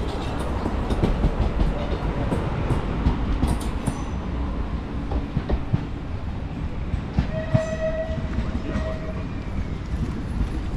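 Light-rail train running with a steady low rumble and clicks from the track, and a horn sounding two short blasts about seven seconds in.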